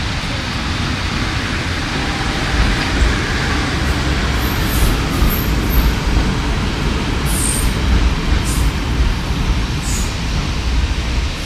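Passenger coaches of a steam-hauled special train rolling through the station, a steady rumble of wheels on rail with several short high squeaks in the middle and second half.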